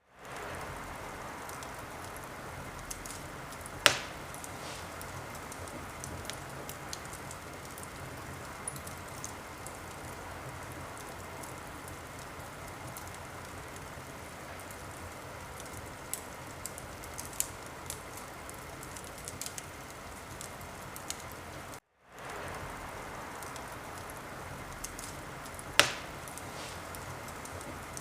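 Wood fire crackling: a steady hiss with scattered small snaps and two loud pops, about 4 seconds in and near the end. The sound cuts out for a moment about three-quarters of the way through, then fades back in.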